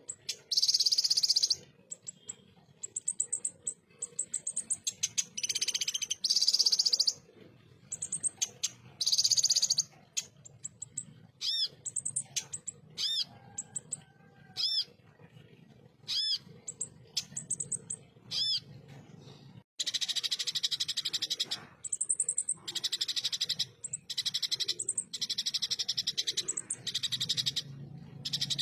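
Kolibri ninja (konin) sunbird singing its harsh, rapid 'tembakan' song: high-pitched fast trills and buzzy bursts. Separate sharp chirps repeat through the middle, and a long run of quick buzzy bursts fills the last third.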